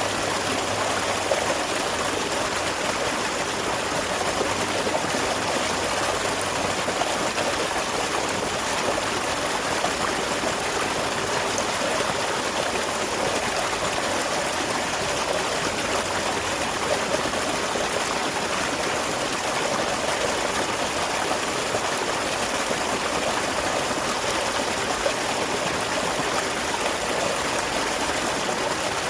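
Small waterfall splashing steadily into a stream, a constant rushing and trickling of water.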